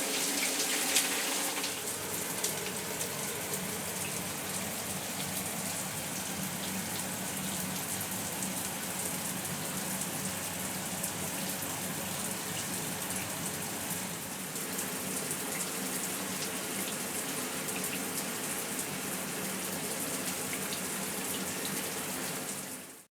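Square rain shower head spraying water into the shower, a steady hiss of falling water that fades out at the very end.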